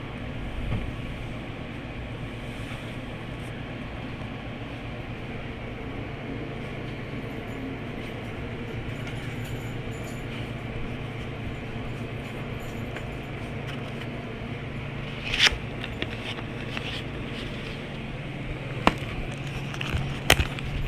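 Car driving: steady engine and road noise with a low hum, and a few sharp clicks or knocks in the last six seconds.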